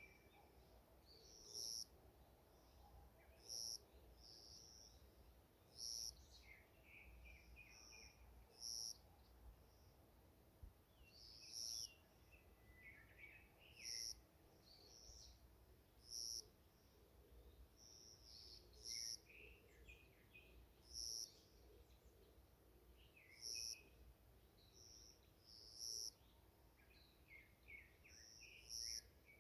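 Faint forest birdsong: scattered chirps, with a short high-pitched call repeating at an even pace about every two seconds.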